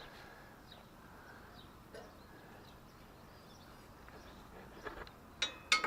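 Quiet outdoor background with scattered short bird chirps. Near the end, a few sharp metallic clinks and knocks, some ringing briefly.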